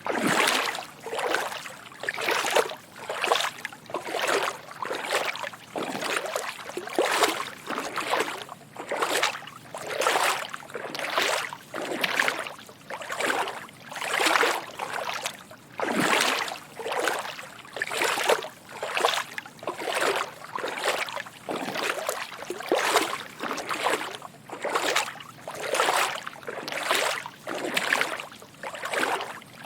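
Footsteps wading through shallow water, soft sloshing splashes at an even walking pace of roughly two steps a second.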